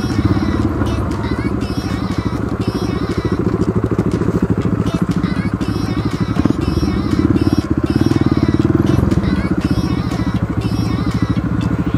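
Dirt bike engine running at low revs on a rough trail, with an even, rapid firing beat. The revs pick up about six and a half seconds in and ease off again about nine seconds in.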